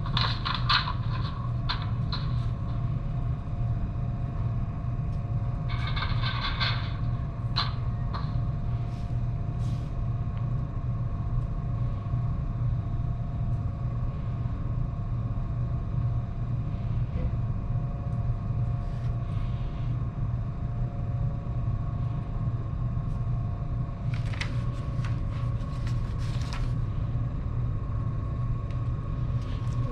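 Semi-truck diesel engine idling: a steady low rumble with a few faint steady tones above it, heard from inside the cab. A few short, faint sounds come over it partway through and again near the end.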